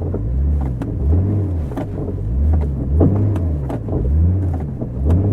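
Jeep engine under load in deep snow, its revs rising and falling rhythmically about once every 0.7 s as the aired-down, locked tyres spin and bog, with scattered sharp knocks: the Jeep is getting stuck.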